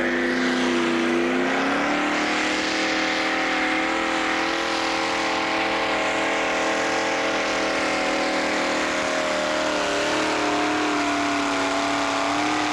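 Tractor-pull tractor's engine running hard under load as it drags the weight-transfer sled down the track. Its pitch climbs over the first two seconds and then holds steady, with a slight dip and a rise again near the end.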